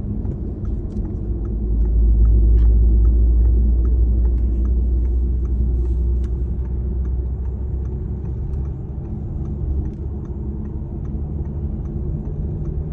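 A vehicle in motion: a steady low rumble with a running drone and faint light ticks at about three a second. The rumble swells about two seconds in and eases off again a few seconds later.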